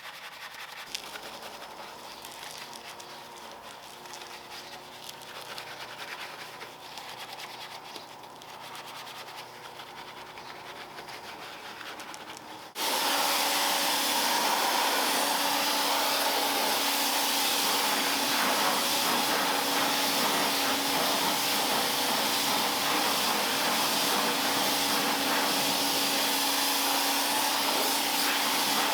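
Quieter rubbing with a faint hum, then about 13 seconds in an electric pressure washer starts abruptly and runs loud and steady: motor whine with the hiss of the water jet.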